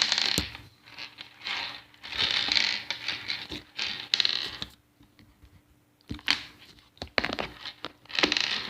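Slime being squeezed and stretched by hand, making repeated short bursts of crackly, squelching noise about once a second, with a pause of about a second and a half in the middle.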